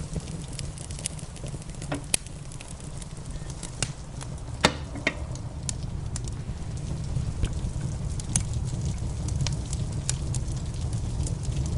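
Wood fire crackling in a fireplace, with scattered pops and one sharp pop a little before halfway, over a steady low rush of rain.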